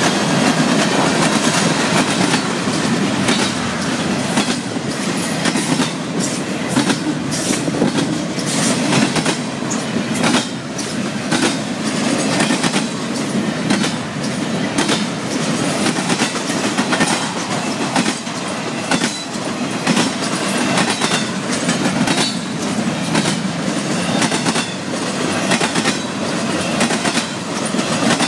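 Florida East Coast Railway freight train's cars rolling past, a steady rumble with the steel wheels clicking over rail joints.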